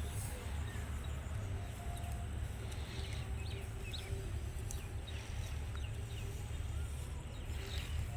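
A steady low rumble, with short faint bird chirps now and then over it.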